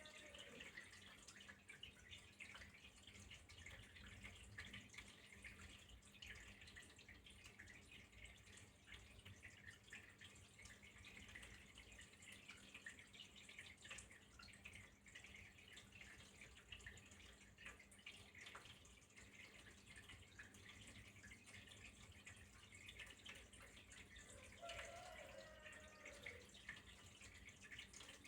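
Faint, steady trickle of flowing water with many small drips and splashes. About 25 seconds in, a brief pitched sound rises and falls once.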